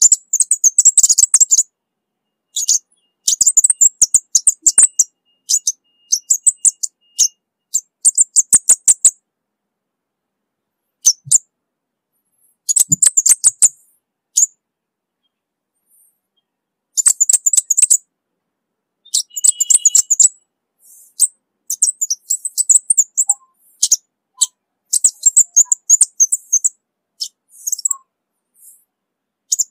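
Orange-bellied flowerpecker calling: bursts of very high, thin, rapid chip notes, each run lasting a second or two, with short pauses between runs.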